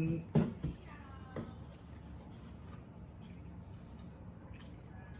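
Faint eating sounds: scattered small wet clicks and smacks of chewing, over a steady low hum, after a short vocal sound at the very start.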